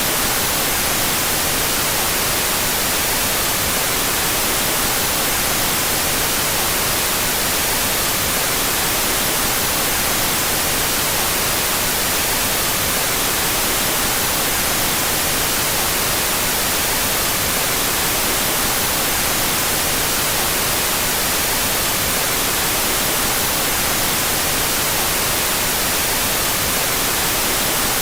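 Steady, unbroken white noise, a hiss strongest in the high end, with its two stereo channels out of phase with each other.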